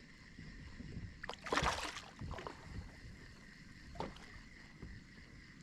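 Handling noises aboard a fishing kayak: a few short knocks and a brief rushing burst about a second and a half in, over faint steady background noise.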